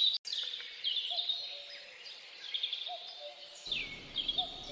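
Small birds chirping, short downward-sliding chirps repeated every second or so over a faint outdoor background.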